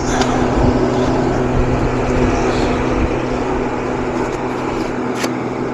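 Steady machine hum: a constant rushing noise over a low, even drone, with one short click about five seconds in.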